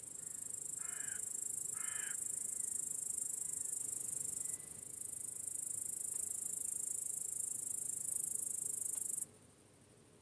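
A cricket trilling close by, a steady, very high-pitched trill that briefly dips about halfway and cuts off suddenly near the end. Two short harsh bird calls come about a second apart early on.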